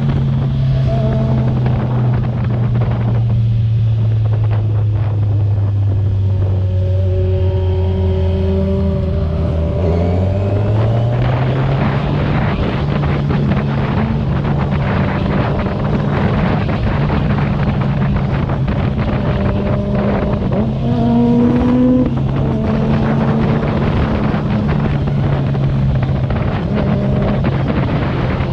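Kawasaki Z1000R's inline-four engine running through its stock exhaust while riding, with wind rushing over the microphone. The engine note sinks for several seconds and then climbs again about ten seconds in. There is another short rise about two-thirds of the way through.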